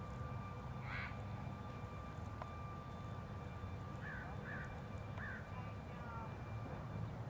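Steady low rumble with a faint steady whine, and a few short bird calls: one about a second in, then three more in quick succession around four to five seconds in.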